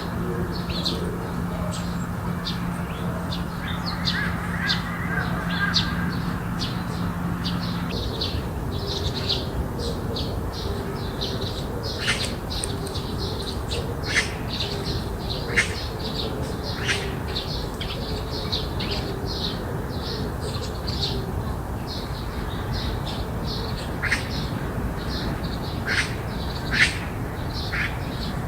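Many small birds chirping in short, sharp calls throughout, thickest in the second half, over a steady low background rumble. A steady low hum stops about eight seconds in.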